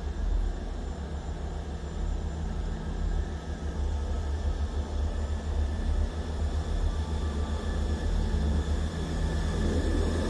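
Diesel multiple-unit train rumbling as it runs in along the platform, its engine drone and wheel noise growing louder near the end.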